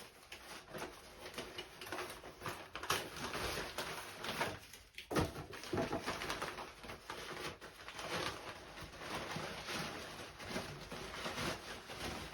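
Cardboard packaging being handled and pulled apart, with irregular crackling and rustling and a brief lull about halfway through.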